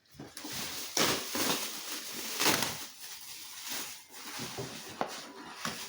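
Cardboard box and packaging rustling and scraping in irregular bursts while the parts are handled, with a sharp click about five seconds in.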